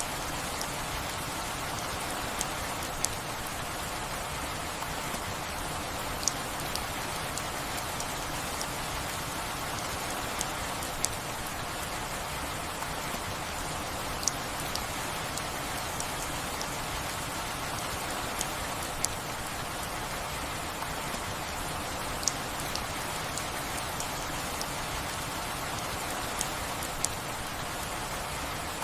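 Steady rain falling on a surface, an even hiss with sharp single drop ticks standing out every few seconds.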